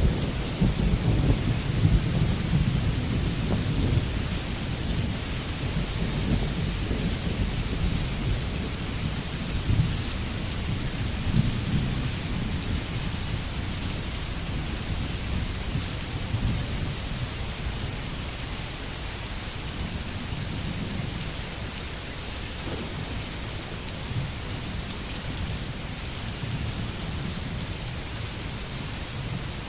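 Steady rain falling in a forest, a constant hiss, under a low rolling rumble of thunder that is strongest in the first dozen seconds and slowly dies away.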